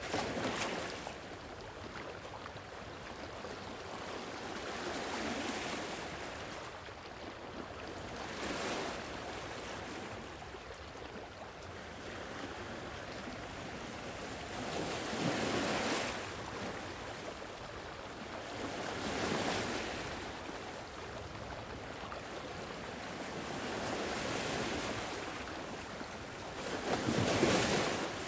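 Sea waves washing onto a shore, each swelling and receding every few seconds over a steady background rush, with a light wind; the loudest wave breaks near the end.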